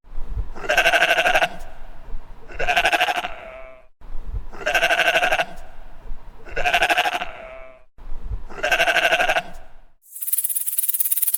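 An animal bleating: five wavering calls, each under a second long, repeated about every two seconds. Near the end a scratchy, hissing rasp takes over.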